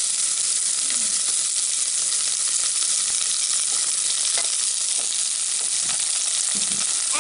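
Chopped onions and green chilies sizzling in hot oil in an aluminium pan: a steady frying hiss with fine crackles.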